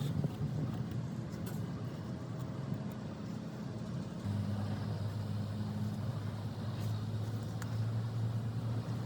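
Diesel engine running steadily, a low hum that steps up a little about four seconds in.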